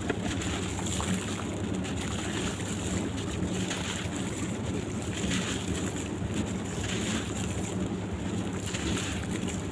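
Sand-cement blocks crumbling in water: a continuous crumbly hiss with soft swells every second or so.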